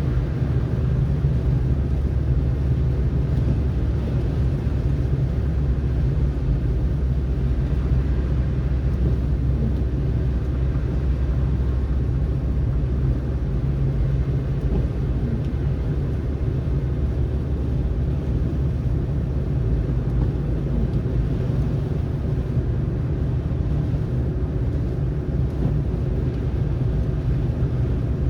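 Car driving on snowy roads: a steady low rumble of tyres and engine with an even road hiss above it, unchanging throughout.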